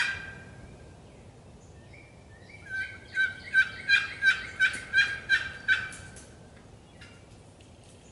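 A series of about eight turkey yelps, evenly spaced at roughly three a second, coming after a short pause. Each yelp is a loud pitched note.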